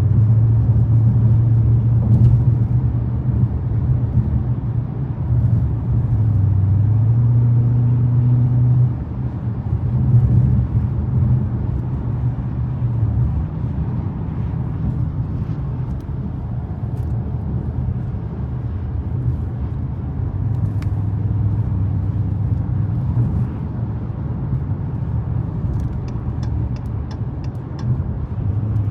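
Dodge Challenger Scat Pack's V8 engine running under way at a steady cruise, a low drone that shifts slightly in pitch and drops in loudness about nine seconds in as the throttle eases.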